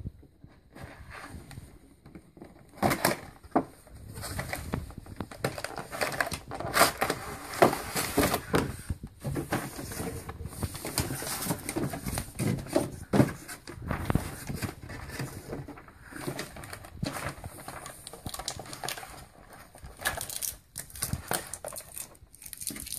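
Toy packaging being opened by hand: irregular crinkling, rustling and clicking, with sharper knocks and crackles scattered throughout, busiest in the first half.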